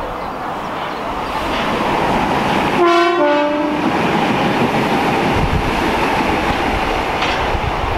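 Passenger multiple-unit train running past at speed, with a steady rumble of wheels on rail. About three seconds in it sounds a short two-tone horn blast, a higher note dropping to a lower one, lasting about a second.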